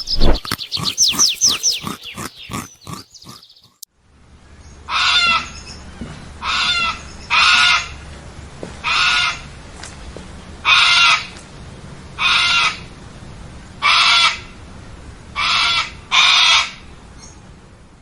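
A bird giving a harsh call over and over, nine calls roughly a second and a half apart, after a quick run of rapid, falling chirps in the first few seconds.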